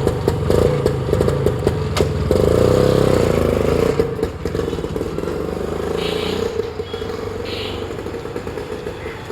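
1965 Lambretta scooter's two-stroke single-cylinder engine running and revving as the scooter is ridden off for a test ride, with a few sharp clicks in the first two seconds. The engine is loudest from about two to four seconds in, then grows steadily fainter as the scooter moves away.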